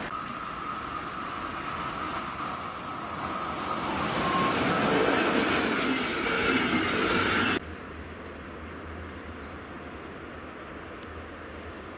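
Red double-deck electric regional train passing close by over a level crossing: steady running noise of wheels on rail. The sound cuts off abruptly about seven and a half seconds in, leaving a much quieter steady rumble.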